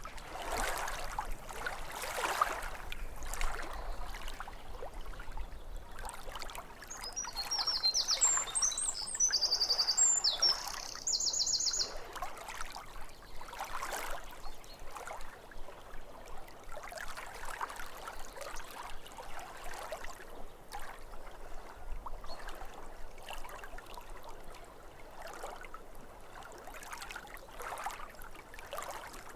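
Small waves lapping against a lake shore in irregular splashes. A songbird sings a burst of quick, trilled notes from about seven to twelve seconds in.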